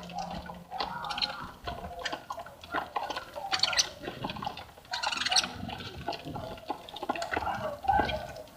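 A flock of small birds chirping and twittering at a seed feeder, many short overlapping calls and clicks in quick succession.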